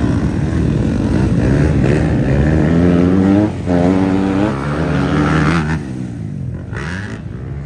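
Motocross bike engine revving hard as it accelerates, with a brief dip in the middle like a gear change before it climbs again. It falls away and gets quieter near the end.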